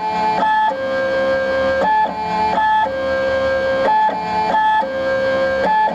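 Stepper motors of a Sherline CNC lathe whining at steady pitches as the program drives the axis back and forth. A long lower tone alternates with short higher-pitched moves, and the pattern repeats about every two seconds.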